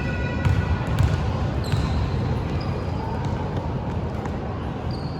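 Basketball game on an indoor court: the ball bouncing on the floor, with a few sharp knocks over a steady background din.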